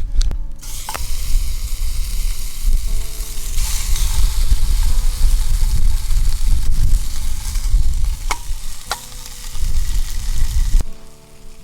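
Hamburg steak frying in a skillet over a campfire: a steady sizzle with a few sharp pops, over a low rumble. The sizzle cuts off suddenly near the end.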